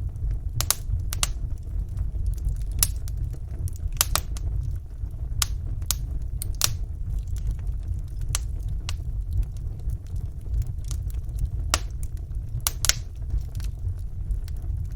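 Wood fire burning in a fireplace: a steady low rumble of flames with sharp crackles and pops from the burning logs, irregular, now and then two in quick succession.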